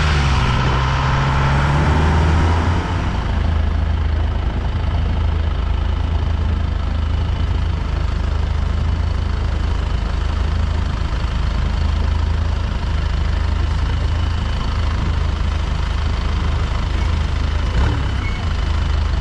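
Boat engine running under way with a steady deep drone and a rush of noise over it; the engine note changes about three seconds in, then holds steady.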